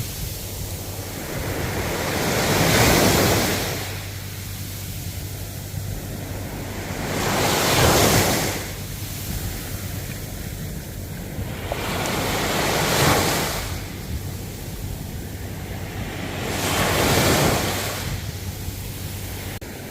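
Ocean waves breaking and washing on the shore, swelling and easing in four surges about every four to five seconds.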